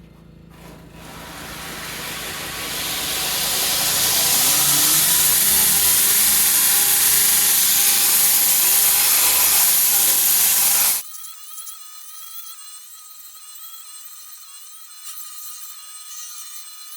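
Power grinder grinding a hardened steel hatchet head to shape, building up over the first few seconds, then running loud and steady until it cuts off suddenly about eleven seconds in. Quieter background music follows.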